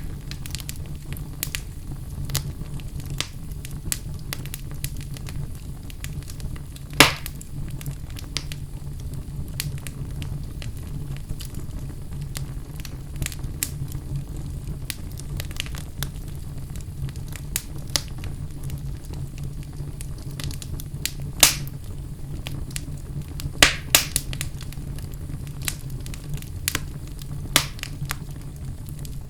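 Wood fire burning in a fireplace: a steady low rumble of the flames with irregular crackles and sharp pops of burning logs, the loudest pops about seven seconds in, around twenty-one seconds in, and a small cluster near twenty-four seconds.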